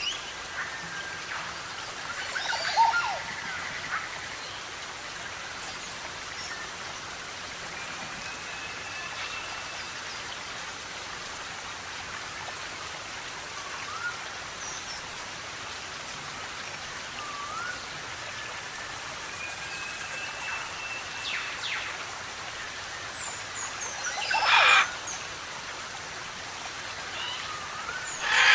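Several forest birds calling over a steady background hiss: scattered short rising whistles and a couple of longer level whistles, with loud harsh calls about 3 seconds in, near 24 seconds and again at the very end.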